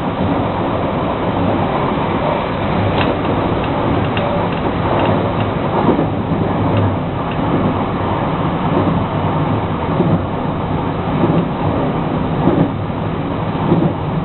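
Running noise of a JR West 223 series electric multiple unit with Hitachi traction equipment: a steady rumble of wheels on rails, with scattered short clicks.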